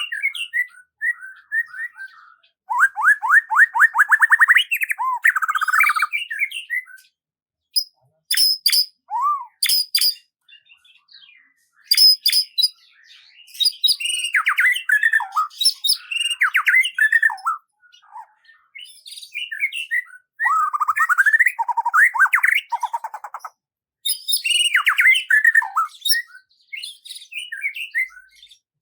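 A songbird singing: varied phrases of rapid trills and high chirps, each a few seconds long, separated by short pauses.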